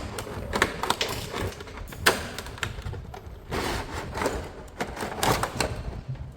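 Hard plastic toy parts and packaging being handled: irregular clicks, taps and crinkles, with a sharper knock about two seconds in and another past the middle.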